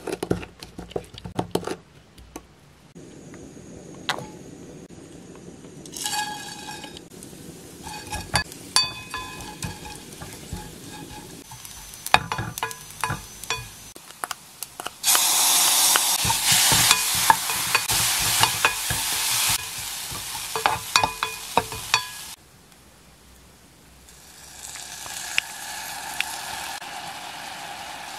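A wooden spoon clicks against a glass bowl as the soy sauce and garlic are mixed. Then dried baby anchovies fry in a hot pan, sizzling with scraping and knocks from stirring. About halfway through, the sauce hits the hot pan and the sizzle turns much louder for about seven seconds before cutting off suddenly; a softer sizzle comes back near the end.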